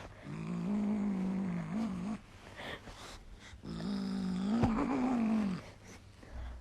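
A pet cat or dog making two long, low, drawn-out vocal calls, each about two seconds long and gently rising and falling in pitch; the second call is a little louder.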